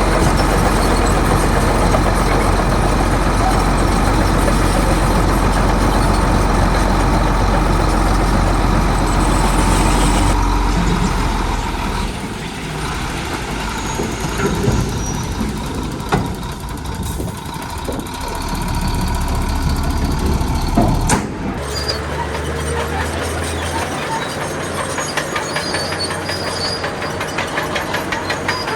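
Heavy diesel engines of dump trucks and a bulldozer running. A steady deep rumble holds for about the first twelve seconds, then the engine sound shifts and varies, with one sharp knock about twenty-one seconds in.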